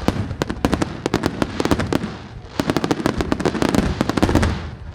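Fireworks exploding in a rapid volley: dozens of sharp bangs and crackles in quick succession. They come in two dense clusters, one in the first two seconds and one from about two and a half to four and a half seconds in, then thin out near the end.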